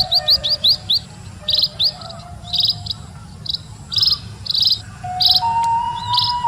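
Small birds chirping rapidly in short repeated bursts and quick rising calls, with a held flute note coming in about five seconds in.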